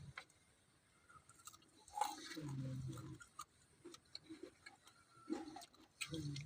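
A person chewing and eating close to the microphone: scattered small wet mouth clicks, with a louder stretch about two seconds in.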